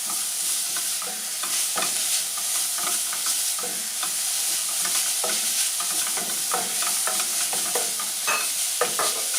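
Onions, garlic and grated carrots sizzling in hot vegetable oil in a pan, with a steady hiss, while being stirred so that the utensil scrapes the pan in quick, irregular strokes.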